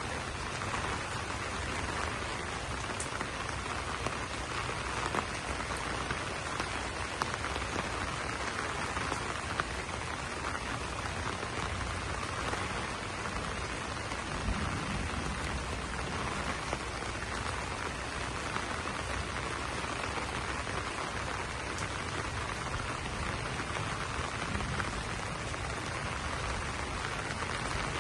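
Steady rain falling on banana leaves, with scattered sharper drop ticks.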